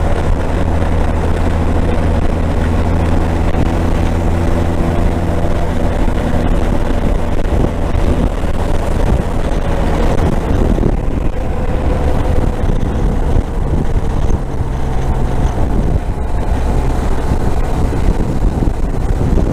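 Motorcycle engine running steadily while riding, with wind rushing over the microphone. About ten seconds in, the engine note drops and changes, as when the rider eases off or shifts gear.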